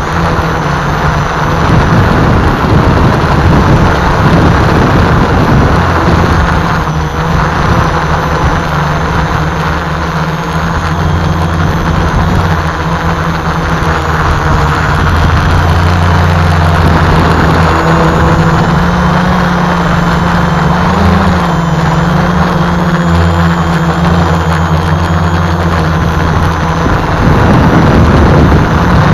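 Home-built multicopter's brushless motors and propellers running in flight: a steady low hum with a thin high whine that wavers in pitch as the motors adjust. Heavy, uneven wind rumble on the microphone from strong gusts.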